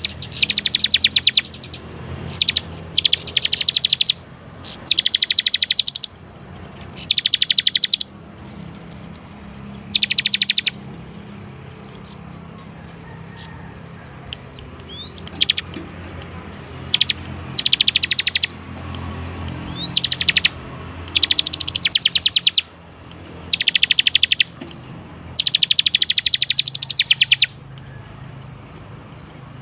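Bar-winged prinia (ciblek) singing energetically: bursts of fast, high, rattling trills, each about half a second to a second long and repeated every second or two, with a longer pause partway through. A steady low hum sits underneath.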